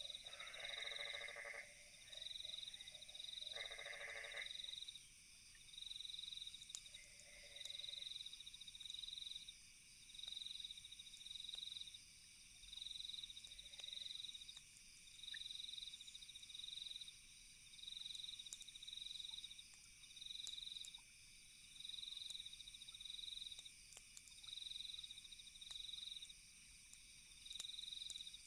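Night ambience of crickets chirping in steady high pulses, about one a second, over a constant high insect trill. A frog croaks a few times in the first eight seconds, and a few faint sharp crackles are scattered through.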